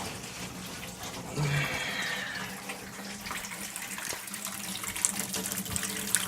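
Kitchen faucet running into a stoppered sink basin, filling it to test a newly installed sink strainer's seal.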